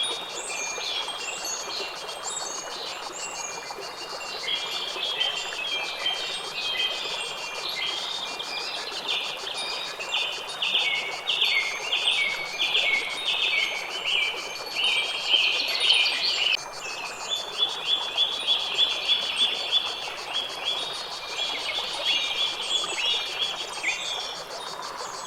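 Several birds singing and calling over a steady background hiss. About ten seconds in, one bird starts repeating a short falling note over and over, speeding up into a quicker series a few seconds later.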